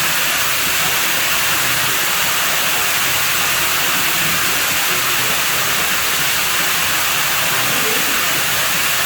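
Water running steadily at a pool villa's pool: an even, unbroken rushing hiss.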